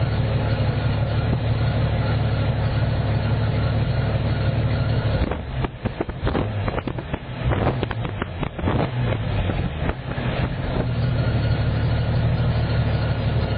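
Exhaust of a 1992 Jeep Cherokee's 4.0 straight-six idling steadily through an aftermarket universal muffler and tailpipe. About five seconds in the sound turns uneven and choppy for a few seconds, then steadies again.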